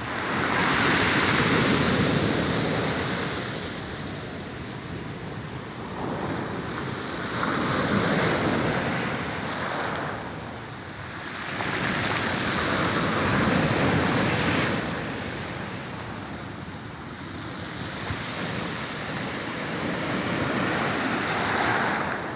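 Small Black Sea waves breaking on the shore, the surf noise swelling and fading about every six seconds.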